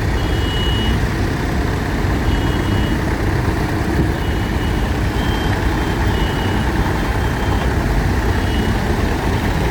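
Engines of tractors and lorries running in a steady low rumble. Short high-pitched beeps come in now and then over it.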